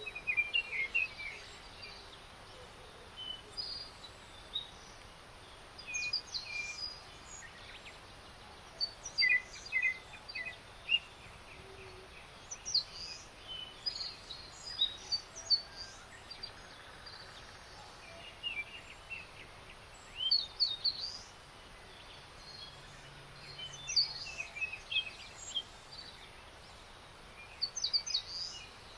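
Songbirds singing: clusters of short, high chirps and trills every second or two, over a faint steady outdoor hiss.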